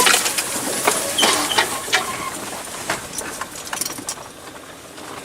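Irregular clattering and knocking from inside a car as it drives slowly over a rough forest dirt track. The body and loose things in the cabin rattle over the bumps, busiest in the first couple of seconds and easing off near the end.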